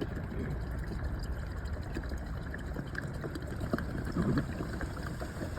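Petrol pouring steadily from a 1.5-litre bottle into a car's fuel filler.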